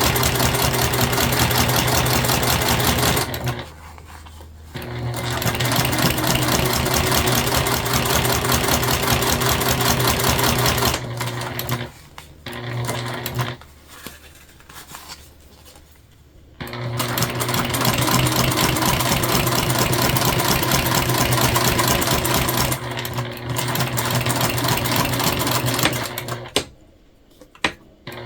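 Domestic sewing machine running in long stretches of fast, even stitching, top-stitching a zipper onto jelly vinyl. It stops briefly about three seconds in, pauses for several seconds around the middle with one short burst of stitches, and stops again near the end.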